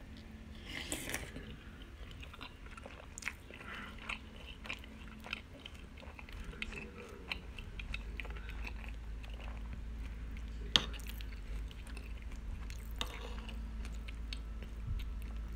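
Crunchy cinnamon cereal squares in milk being chewed: a run of irregular crisp crunches and crackles, with a single sharp click a little before the last third.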